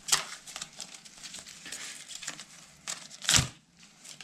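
Plastic packaging crinkling and tearing as a new drill bit is unpacked, in short crackly bursts, with one louder thump a little over three seconds in.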